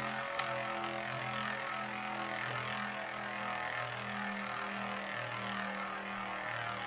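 Two Metal Fusion Beyblades spinning in a stadium, a steady whirring hum with scraping hiss, and one sharp click a little under half a second in as the tops knock together.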